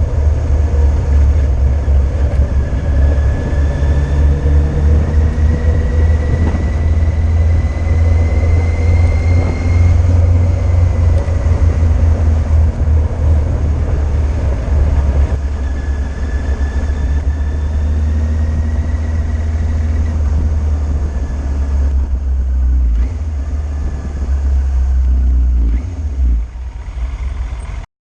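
Yamaha Fazer 600 inline-four motorcycle riding along, its engine note slowly rising twice as it pulls, under heavy wind rumble on the bike-mounted camera's microphone. The sound cuts off abruptly near the end.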